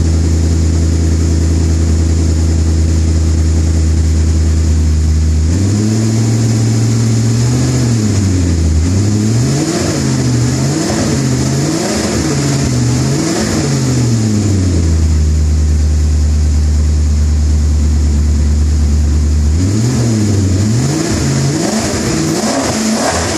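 Maserati Coupe V8 running through a Fabspeed muffler bypass straight exhaust. It idles steadily, then is revved up and down in a quick series of blips and settles back to idle, and is blipped again several times near the end.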